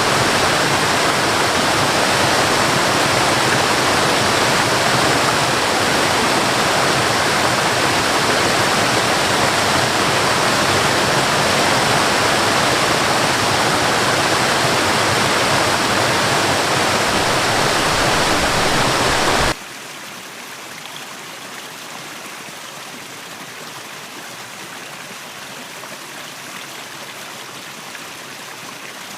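Waterfall, a loud and steady rush of falling water. About two-thirds of the way through it cuts off suddenly to a much quieter, thinner sound of running water.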